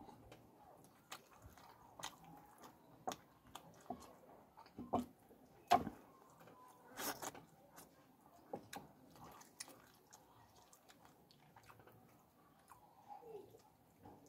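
Close-up biting and chewing while eating fish curry by hand, with many short sharp mouth clicks. The loudest bites come about six and seven seconds in.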